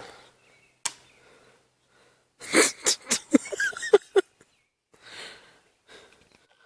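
A sharp click about a second in, then a loud burst of a person's breathy, non-speech vocal sounds lasting about two seconds, followed by a fainter breath.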